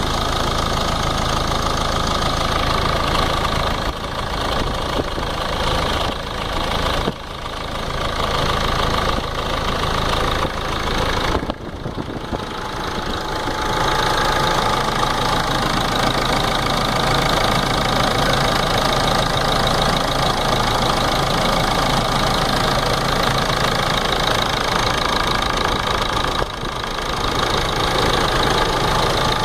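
Ford Ranger 3.0 NGD diesel engine running at idle with a knocking noise coming from its timing case.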